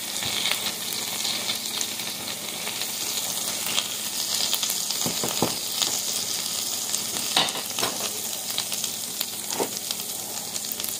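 Minced garlic sizzling in sesame oil in a metal frying pan: a steady frying hiss with a few louder crackles scattered through.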